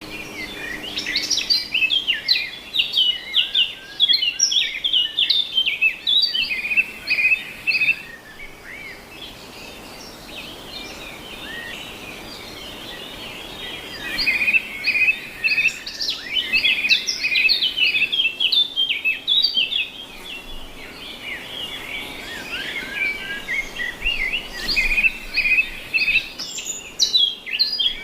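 Many small birds chirping and chattering together in a dense, overlapping stream of quick high notes, which thins out for a few seconds about a third of the way through before picking up again.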